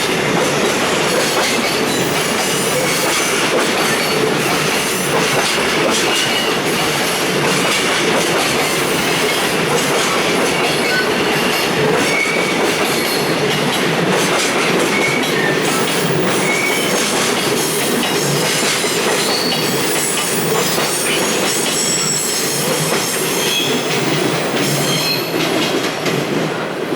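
Container wagons of a freight train rolling past, a steady rumble with wheels clacking over rail joints and short high wheel squeals now and then.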